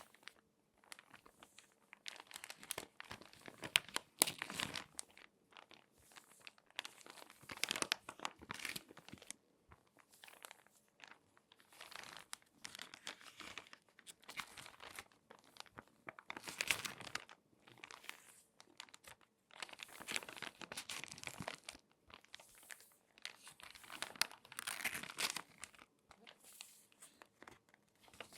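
Crinkly magazine pages being folded and handled by hand: bursts of crackling and crinkling paper every second or two, with short pauses between them.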